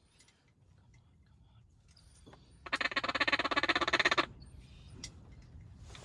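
Duck call blown in a rapid run of pulsing notes for about a second and a half, a little before the middle.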